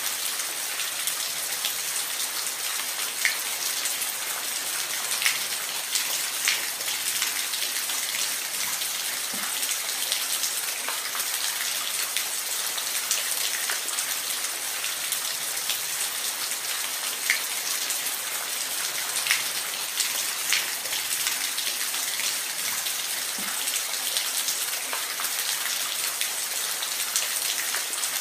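Rain falling steadily, a constant hiss with scattered louder drops ticking.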